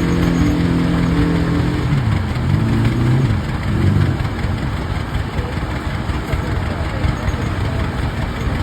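Rumely OilPull tractor engines running under belt load to a sawmill. A steady hum breaks up and drops in pitch about two seconds in, wavers, and from about four seconds on gives way to a rougher, low running noise.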